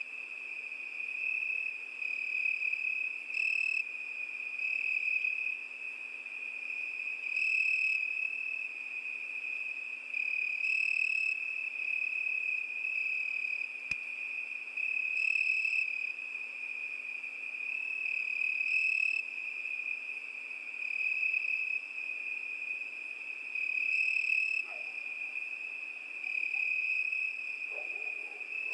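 A cricket singing one continuous high trill that swells and eases every three to four seconds.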